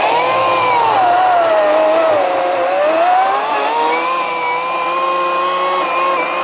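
Ryobi 40V brushless battery chainsaw cutting into a stump, its electric motor whining steadily. Between about one and three seconds in, the pitch sags as the chain bogs down in the wood, then climbs back and holds.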